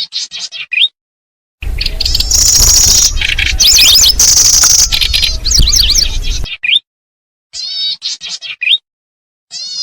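Kecici belalang, a small songbird, in a looped lure recording: short phrases of rapid, high chirps and trills broken by abrupt silent gaps. From about a second and a half in until about six and a half seconds, a denser, louder stretch of calls plays over a steady low rumble.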